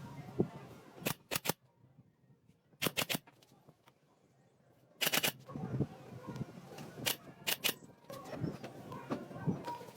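Sharp knocks or clacks in short groups of two or three, a few seconds apart, with a quiet stretch between the second and third groups.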